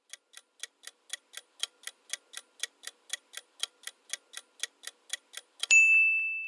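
Clock-ticking countdown timer sound effect, about four ticks a second, ending about five and a half seconds in with a single ringing ding, the loudest sound, that marks time up for the quiz answer.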